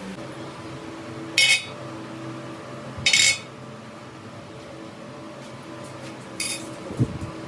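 Three short metallic clinks of steel parts or tools knocking together, spread a few seconds apart, over a steady workshop machine hum, with a dull thump near the end.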